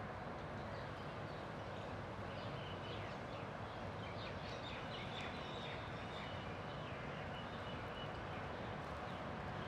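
Outdoor ambience: a steady background rumble with many faint, quick high chirps of small birds calling throughout, and a thin held high note in the middle.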